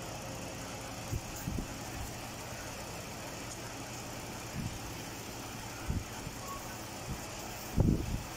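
Mazda CX-9 engine idling with a steady low hum, with a few dull low thumps, the loudest near the end.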